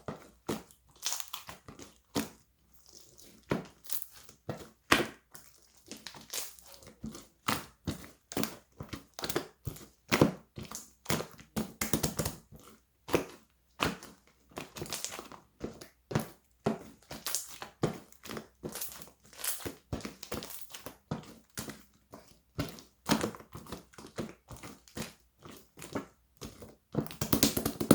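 Clear slime being squished and pressed by hand, making irregular crackling, popping squelches, roughly one to two a second.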